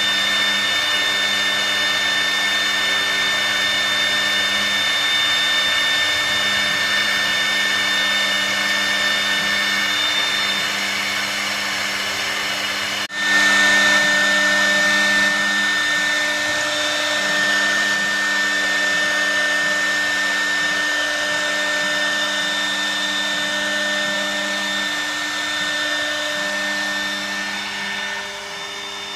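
CNC router's high-speed spindle running while it engraves MDF: a steady high whine over the hiss of the bit cutting. It drops out for an instant about halfway through and is louder afterwards, then eases off slightly near the end.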